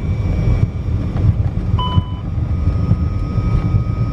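Flight deck of a Fokker F100 on its takeoff roll at flex thrust: a loud, heavy low rumble of the engines and the wheels on the runway. About two seconds in, a short two-pitch beep sounds, followed by a steady high tone.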